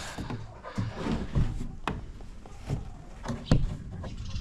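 Handling noise while eggs are gathered by hand from a hard-to-reach nest: rustling, with a few sharp knocks and clicks, the loudest about three and a half seconds in.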